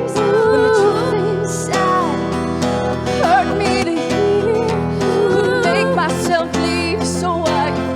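Live song: a singer's wordless vocal runs, sliding and wavering in pitch, over a strummed acoustic guitar.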